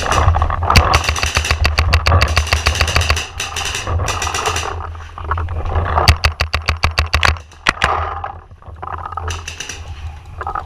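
Paintball markers firing rapid strings of shots, about ten a second, the longest string in the first few seconds and another about six seconds in.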